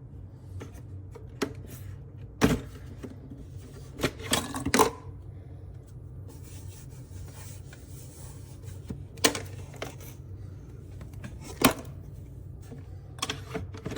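Low steady hum of a Nespresso Vertuo Pop+ capsule coffee machine, with scattered sharp clicks and knocks of plastic and crockery being handled; the loudest come in a cluster about four to five seconds in and once near twelve seconds.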